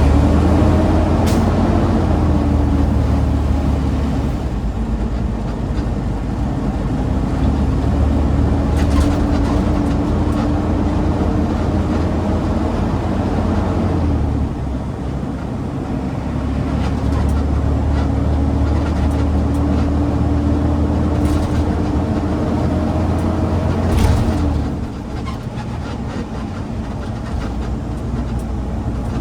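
Garbage truck engine pulling on the road, its pitch rising slowly as it gains speed, then dropping away about halfway through. It climbs again and eases off with a knock near the end.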